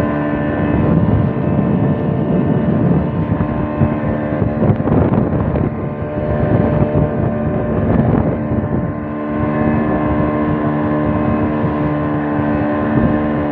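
Boat engine running steadily, a constant multi-tone drone over a rumble.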